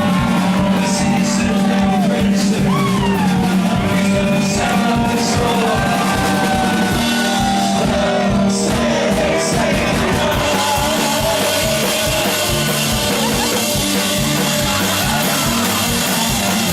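Live band playing rock-style music with a steady drum beat and sustained instrument notes. A voice sings over it through the first half, then the instruments carry on.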